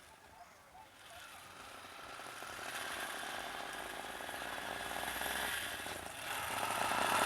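A small vehicle engine running with a fast rattle, getting steadily louder as it comes closer, and louder again near the end.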